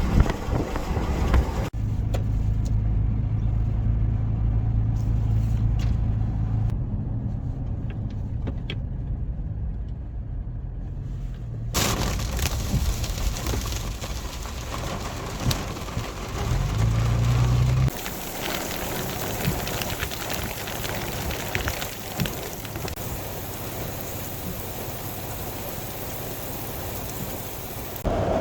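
A run of short clips. First, low vehicle rumble, like road and engine noise from a car on the move. Then, from a cut about twelve seconds in, a steady rushing noise of heavy rain or running floodwater, with a brief low engine hum just before a final cut.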